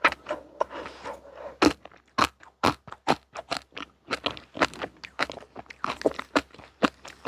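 Close-up crunching and chewing of crunchy sweets: a quick, uneven run of sharp crunches, about three a second.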